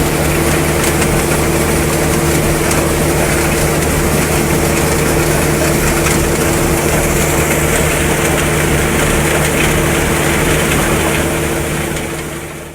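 Tobacco-harvesting tractor running steadily at close range, its engine holding a constant note under the noise of the harvesting machinery. The sound fades out near the end.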